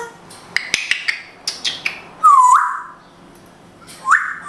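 African grey parrot making a series of sharp clicks, then a loud short whistled call that dips and swoops back up, given twice.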